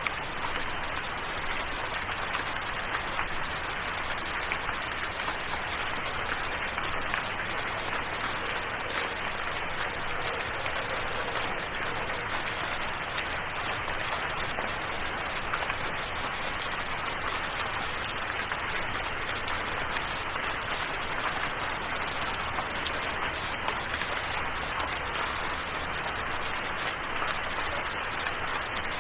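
Steady rain: an even, unbroken hiss of falling drops with fine pattering throughout and no let-up.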